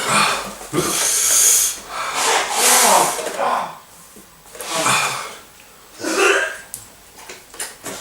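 People breathing hard and hissing air in and out through the mouth, with groans, from the mouth burn of ghost chili. Two long loud hissing breaths come in the first three seconds, then shorter groans.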